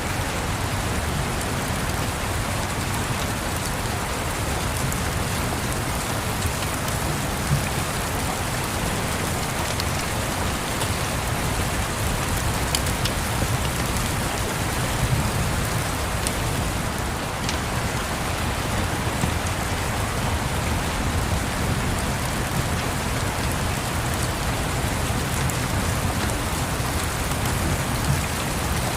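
Steady rain falling, an even hiss with a low rumble underneath, and a few faint sharp crackles standing out now and then.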